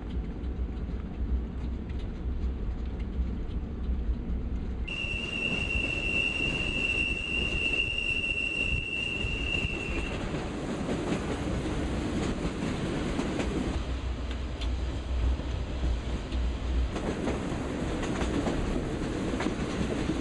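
Train running along the rails, heard from inside an RV carried on a flatcar, with a steady high-pitched wheel squeal from about five seconds in until about ten seconds in.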